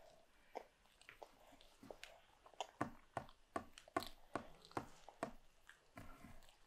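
A toddler chewing a mouthful of crumpet: a run of sharp, quick mouth clicks and smacks, about two to three a second through the middle.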